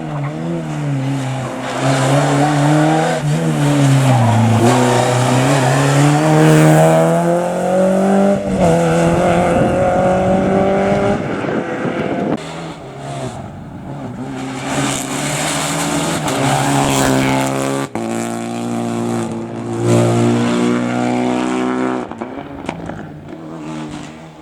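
Rally car engines at full throttle, the pitch climbing and dropping repeatedly as the drivers change gear and lift for corners. The sound cuts abruptly a few times from one car to the next.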